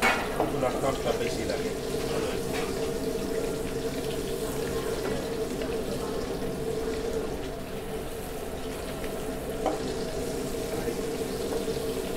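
Shrimp frying in oil in a pan, a steady sizzle over a low steady hum. A few sharp taps come in the first second and one more near the end.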